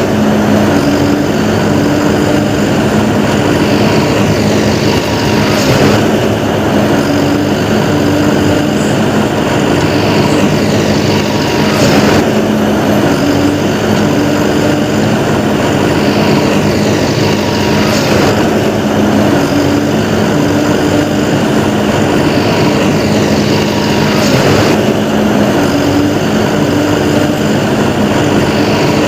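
Steady, loud engine-like drone of a vehicle, its pattern repeating about every six seconds like a looped sound effect.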